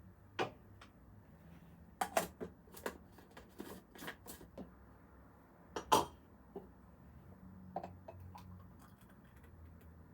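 Kitchen clatter: scattered clicks and knocks of dishes and utensils being handled, a quick run of them in the middle and one louder knock about six seconds in.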